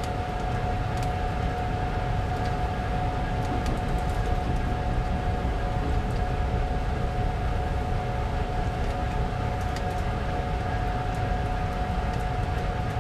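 Moving Alaska Railroad passenger train heard from inside the car: a steady low rumble of the running train, with a steady high whine at one pitch and a few faint clicks.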